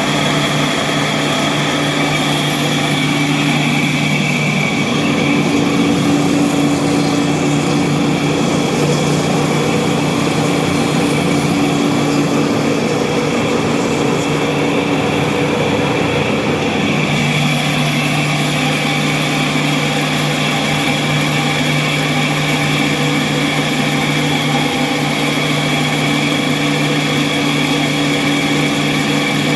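Engine running steadily after its belt-drive gearbox has been replaced and calibrated. Its speed rises about five seconds in, holds, then drops back to the lower note at about seventeen seconds.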